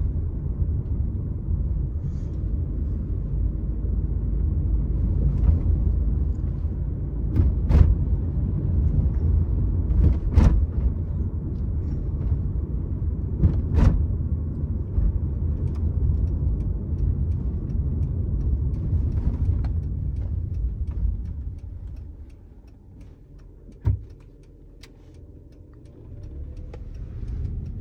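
Low road and engine rumble of a car being driven, with a few sharp knocks scattered through it. About three-quarters of the way through, the rumble dies down for a few seconds, one knock sounds, and then the rumble builds again.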